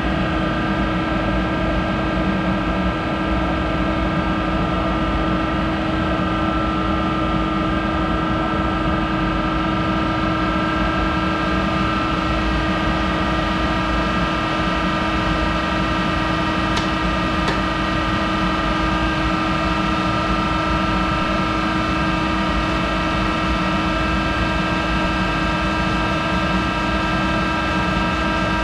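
Monarch 10EE toolroom lathe running steadily with a constant whine while machining hardened steel. Two faint ticks come about halfway through.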